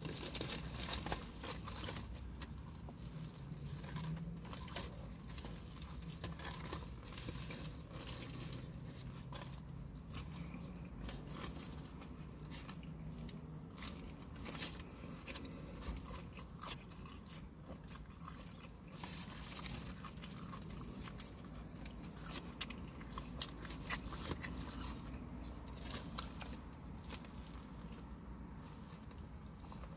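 Close-up chewing and biting of a bacon, tomato and pickle sandwich with an onion ring, with many small crunchy clicks, over a faint steady low hum.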